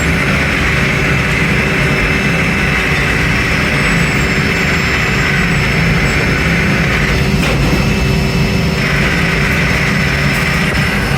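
Factory machinery running steadily: a loud, even hum with a constant high whine.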